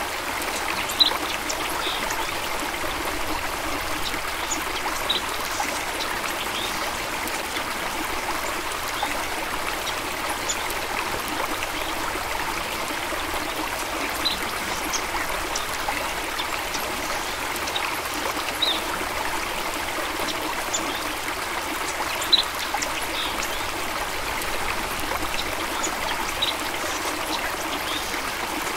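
Stream running steadily, with scattered short, bright plinks of trickling water.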